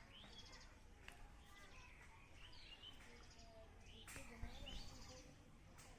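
Faint outdoor background noise with distant birds chirping now and then.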